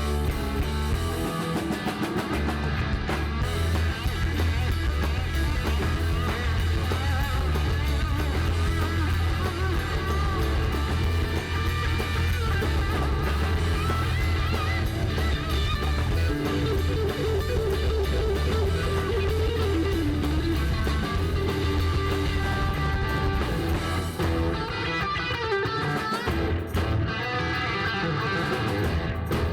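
Live rock band playing an instrumental passage: electric guitar over bass and drum kit, with no singing.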